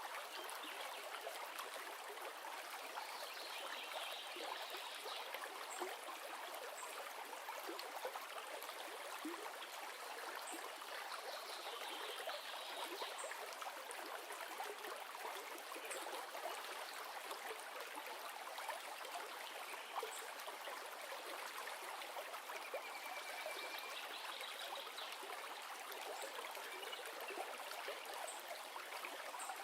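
A river or stream flowing with a steady, even rush of water, with a few faint high chirps over it now and then.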